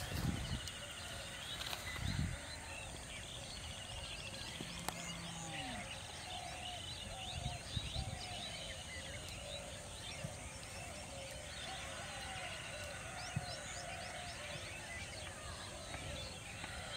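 Birds chirping and calling, with a run of short repeated calls about twice a second through the middle, and a few soft low thumps.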